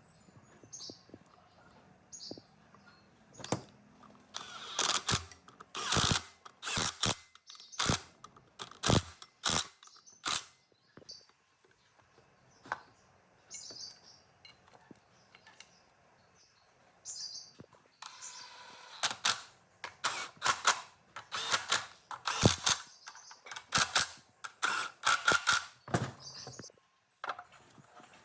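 Sharp clicks and knocks from hand work on metal parts, in two runs of several seconds each with a quieter pause between.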